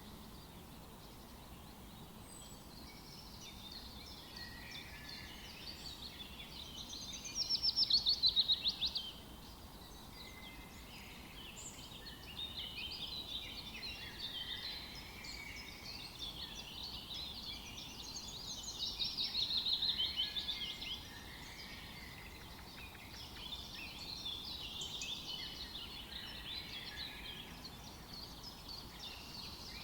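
Several songbirds chirping and singing together, a dense overlapping chorus of high calls. Two louder rapid trills of quickly repeated notes stand out, about a quarter of the way in and again about two-thirds in.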